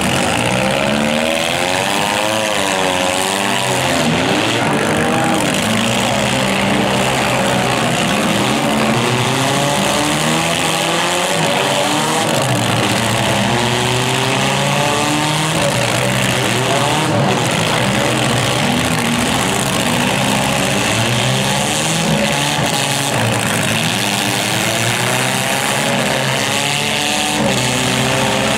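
Several demolition derby cars' engines running at once, revving up and down over and over as the cars push and ram each other, over a constant noisy background.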